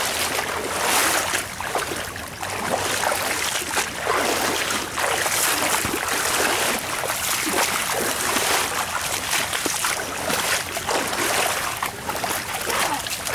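Fast-flowing floodwater in a creek with splashing and sloshing from people wading through it, swelling in repeated surges with each stride.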